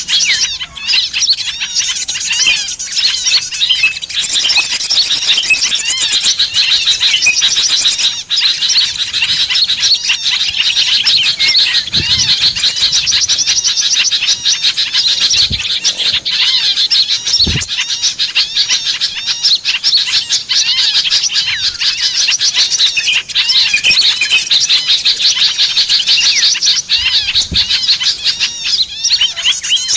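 Dense, unbroken chorus of many small birds chirping and trilling rapidly in high-pitched calls: a lure recording of small-bird calls used to draw small wild birds in.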